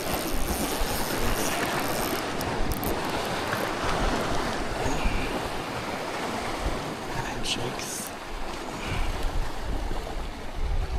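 Wind buffeting the microphone over water sloshing around a kayak, a steady rushing noise that gusts heavier with a low rumble near the end.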